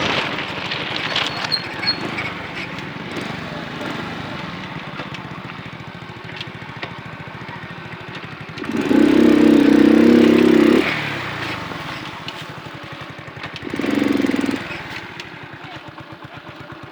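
Small moped engine running and slowly fading away, with two louder pitched surges, a long one about nine seconds in and a short one near fourteen seconds.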